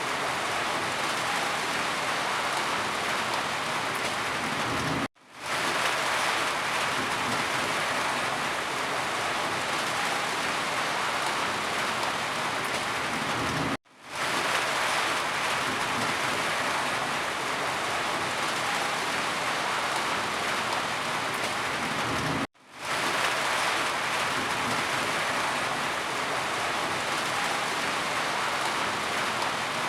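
Steady rain falling, an even hiss of drops. It cuts out suddenly and fades back in three times, about every nine seconds, the seams of a short rain recording played on a loop.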